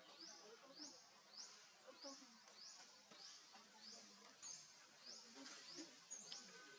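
Faint outdoor jungle ambience with a bird repeating a short, high, upward-sweeping chirp about twice a second.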